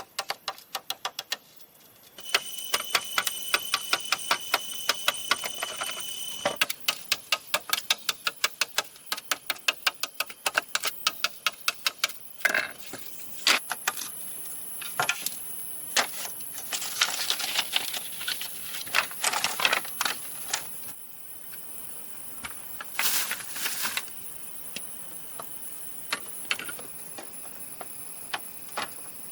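Rapid series of sharp taps and knocks, several a second, with steady high whining tones behind them.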